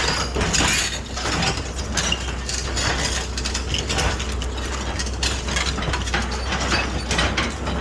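Excavator at work: rapid, irregular metallic clanking and rattling over a steady low engine drone.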